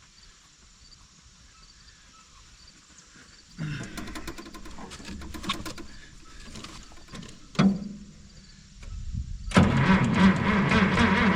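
Minneapolis Moline G900 LP tractor's engine being cranked by its starter without firing: a first stretch of cranking about four seconds in, then a louder, steady crank from about nine and a half seconds. The engine turns over but won't start despite fuel reaching it, which the owner suspects is a spark problem.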